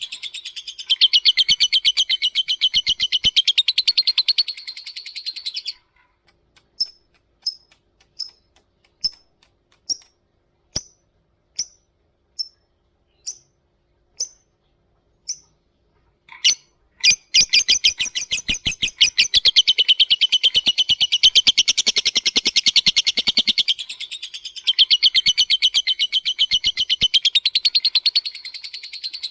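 Lovebird singing. It opens with a long, rapid chattering trill (ngekek), breaks about six seconds in into a string of single sharp ticks at one or two a second (ngetik), and returns to a long rapid trill about seventeen seconds in.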